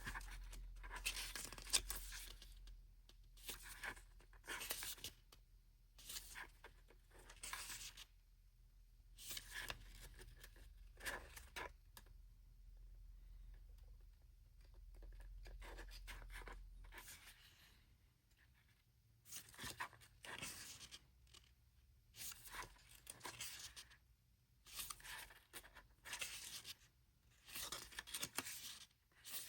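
Faint, irregular rustling and scraping of paper and card as a small album's photo booklets and photo cards are handled and turned over.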